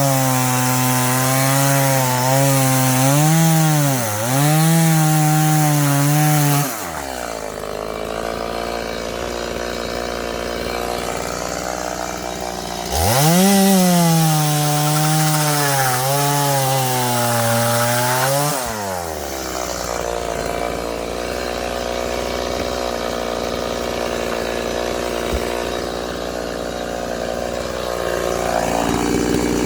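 Chainsaw cutting firewood: two loud cuts of about six seconds each, the engine's pitch sagging and recovering under load, with the saw running more quietly in between.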